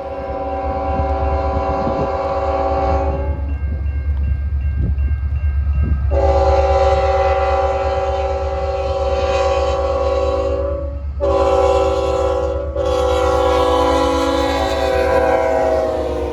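A CN diesel locomotive's multi-chime air horn sounding the grade-crossing signal: two long blasts, a short one and a final long one. The pitch drops near the end as the locomotive passes, over a steady low diesel rumble.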